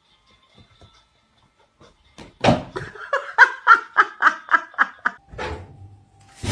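A person laughing: a run of about ten quick bursts of laughter, three or four a second, starting about two and a half seconds in after a nearly quiet start.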